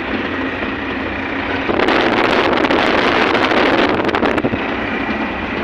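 Truck on the move, heard from the cab: steady engine and road noise, with a louder rushing of wind from about two to four and a half seconds in.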